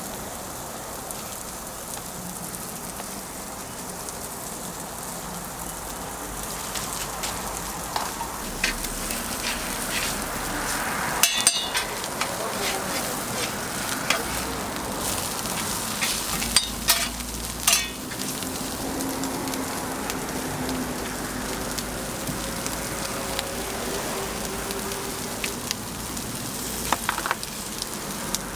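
Food sizzling on a hot street-vendor griddle, with a few sharp clatters of utensils against the metal, mostly in the middle stretch.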